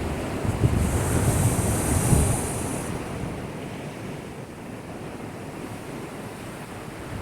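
Heavy surf from a typhoon swell: a wave surges and breaks against a breakwater about a second in, with a low rumble and a hiss of water. The wash then fades to a quieter rush.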